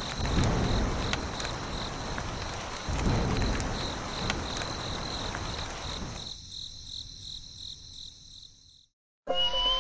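Insects chirping in a steady pulsing trill over outdoor background noise with slow low rumbles, fading out about two-thirds of the way through. After a brief silence, music with rising whistle-like glides starts just before the end.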